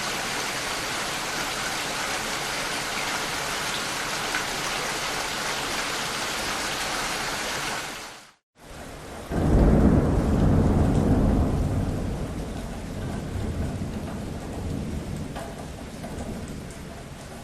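Steady hiss of rain and rushing water that fades out about eight seconds in. After a brief silence, rain comes back with a deep rumble of thunder that swells and then slowly dies away under the rain.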